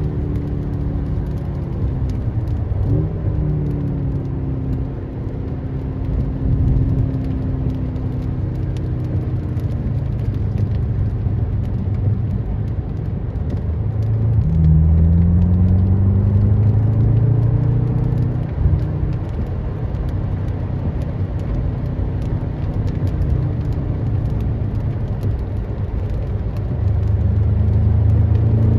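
BMW M6 Competition's twin-turbo V8 being driven on a race circuit. Its pitch falls steadily over the first ten seconds as the car slows, with a brief blip about three seconds in. It climbs again under acceleration from about fourteen seconds in, then rises once more near the end.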